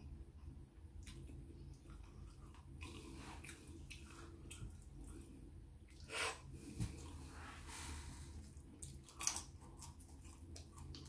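Close-miked chewing of food, with small wet mouth clicks and lip smacks, and two louder smacks about six and nine seconds in, over a low steady hum.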